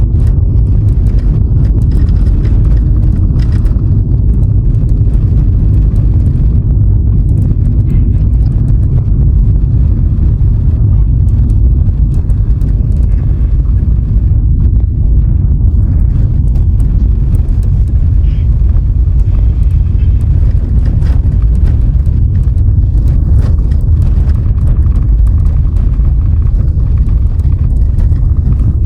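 Vehicle on the move: a loud, steady rumble of road and wind noise, with faint ticks and rattles over it.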